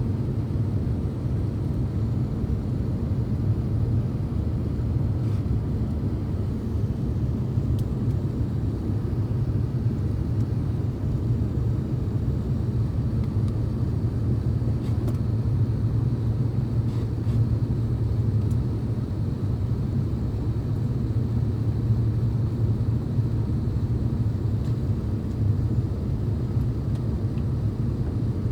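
Steady low rumble of an Airbus A350-900's engines and airflow, heard from inside the passenger cabin.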